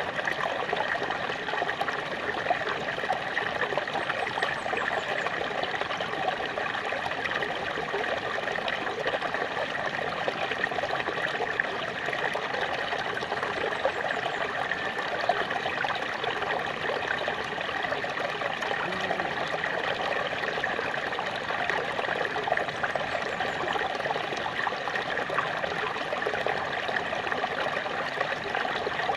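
Small waterfall running steadily, water splashing and trickling in an even, unbroken rush.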